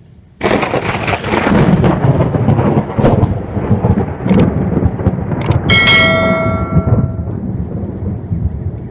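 Thunder rumbling loudly, breaking in suddenly about half a second in and rolling on, with a few sharp cracks. About six seconds in, a brief bell-like ring sounds over it and fades within a second.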